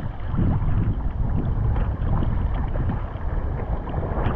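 Muffled, low rumbling of sea water and wind against the camera's microphone at the water's surface, with no clear strokes or splashes.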